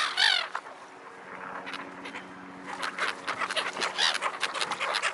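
Black-headed gulls and ducks calling: one gull cry at the start, then a quick run of short squawks and quacks from about three seconds in. Underneath runs the steady hum of a helicopter in the distance.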